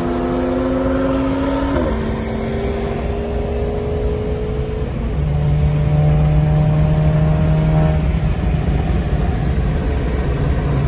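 In-cabin sound of a tuned VW Golf engine under hard acceleration. The engine pitch climbs, drops abruptly about two seconds in as it shifts up, then climbs again, over steady road and engine drone.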